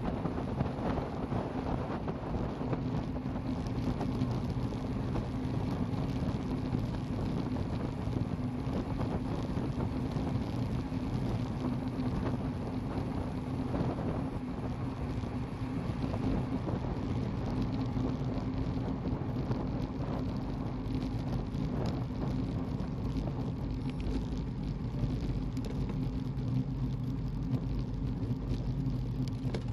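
Steady road noise while moving: a constant low hum with wind rushing over the microphone.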